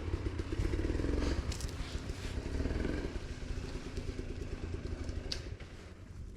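Dirt bike engine running, fading away near the end.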